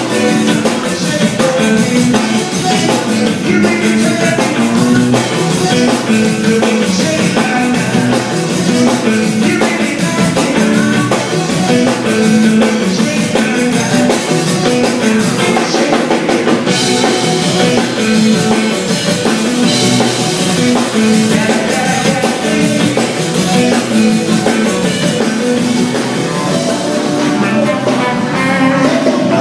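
Live band playing with drum kit and electric guitar, loud and continuous, recorded from the audience.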